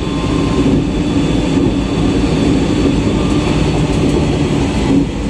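JR East E127 series electric train running, heard inside the car: a steady rumble of wheels on rail with a steady hum over it.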